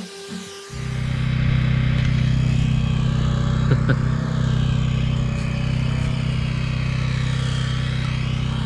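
A backpack leaf blower's two-stroke engine comes in abruptly less than a second in and runs steadily with a strong low hum, blowing crop residue off a combine.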